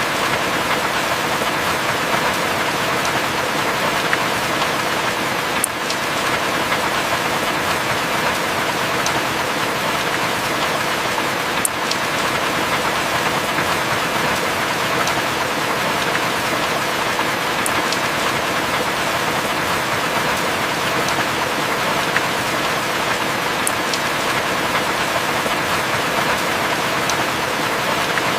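Heavy rain falling steadily, an even dense hiss with no thunder, and faint sharp ticks recurring about every six seconds.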